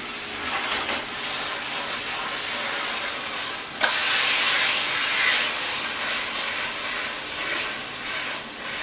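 Chicken breast sizzling in a hot skillet of honey-balsamic sauce, with freshly added balsamic vinegar reducing in the pan. The sizzle is steady. About four seconds in there is a sharp click, and the sizzle is louder for a second or two after it.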